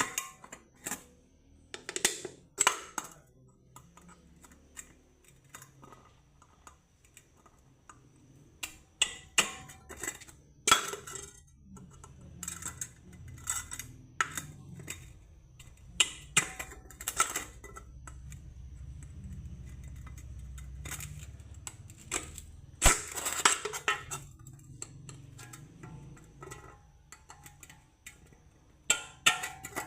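Thin aluminium beer can being pierced and worked with a metal tool: irregular sharp clicks, taps and metallic clinks. A low rumble rises in the middle and fades away.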